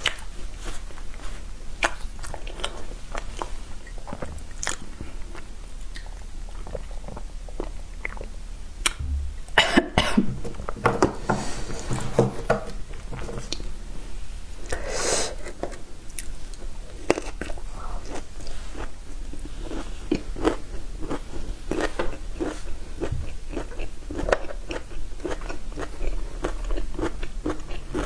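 A person chewing and crunching food close to the microphone, with many short crunchy clicks. There are a couple of louder bursts, one about ten seconds in and one about fifteen seconds in.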